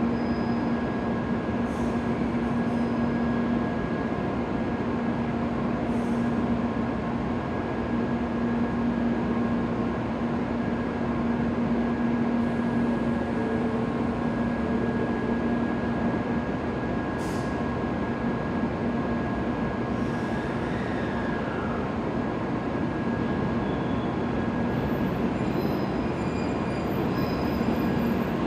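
N700-series Shinkansen train standing at the platform, its onboard equipment giving a steady hum and drone, with a short falling whine about two-thirds of the way through.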